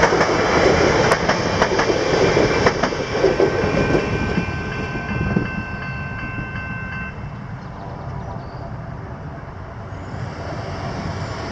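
Train running through a level crossing, wheels clicking over the rail joints. The rumble dies away over the first half as the train moves off. A few steady high tones sound briefly as it recedes.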